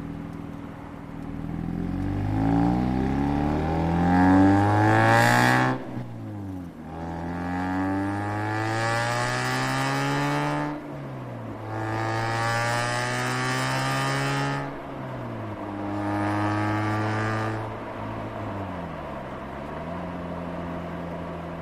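Mazda RX-8 two-rotor rotary engine and exhaust pulling away. The pitch climbs under acceleration and drops sharply at upshifts about 6 and 11 seconds in, then holds steady, rises briefly and falls back to a low, even note.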